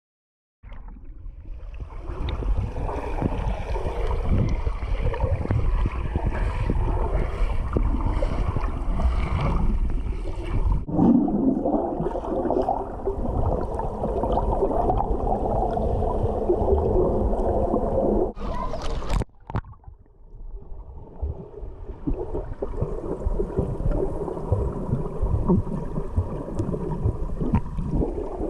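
Underwater sound picked up by a GoPro camera's microphone: a dense, muffled rumbling of moving water with bubbling. It starts abruptly just after the opening, changes character about eleven seconds in, and drops out briefly about two-thirds of the way through before resuming.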